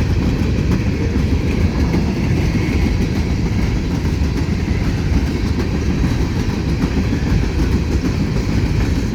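Freight train cars rolling steadily past, steel wheels running on the rails.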